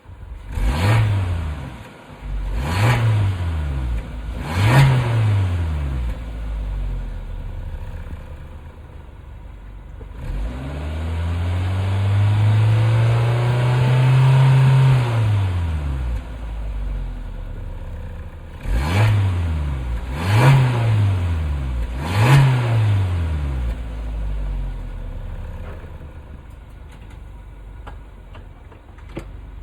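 Suzuki Jimny Nomade's 1.5-litre four-cylinder engine heard through its stock muffler: idling, blipped three times in quick succession, then revved and held for about five seconds, then blipped three more times before settling back to idle.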